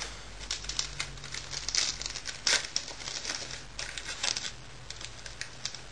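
Trading card pack wrapper crinkling in the hands, an irregular run of crackles with a few louder ones.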